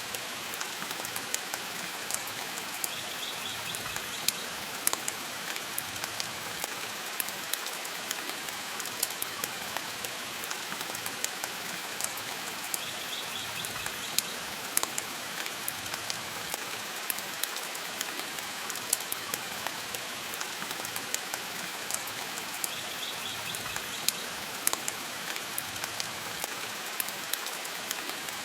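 Steady rain mixed with a wood fire crackling, with sharp pops scattered through. A faint short chirp comes back about every ten seconds.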